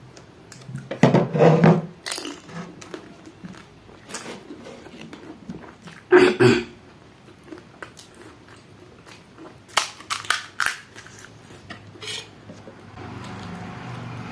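A person biting into and chewing pani puri, the crisp fried puris crunching in the mouth, in loud bursts about a second in, around six seconds and a few times near ten seconds.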